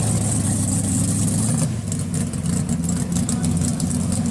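1969 Camaro Z28 drag car's V8 engine running at low speed as the car rolls off, a steady deep rumble.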